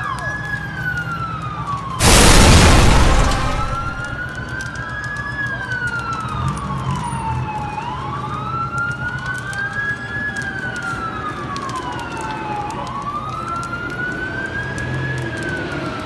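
Emergency vehicle sirens wailing in a slow rise and fall, one sweep every few seconds, with a second siren overlapping out of step and a low engine hum underneath. A loud rushing burst comes about two seconds in and fades over a second or so.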